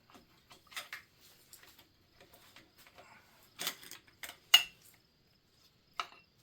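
Metal engine parts and tools clinking and clanking as they are handled and set down during the teardown. Scattered sharp metallic knocks, the loudest about four and a half seconds in with a brief ring.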